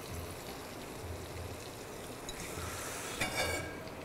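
Chicken pieces sizzling quietly in hot oil and fried onion in a pot, briefly louder about three seconds in.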